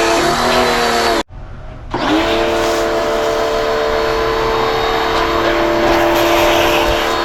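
Muc-Off bike pressure washer running, a steady motor whine over the hiss of spray as the bike is sudsed up. About a second in, the motor slows and cuts out as the trigger is let go, then starts again half a second later and runs steadily.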